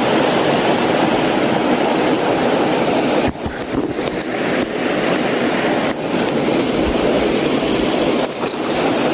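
Wind blowing across the microphone: a steady rushing noise that dips briefly a few times.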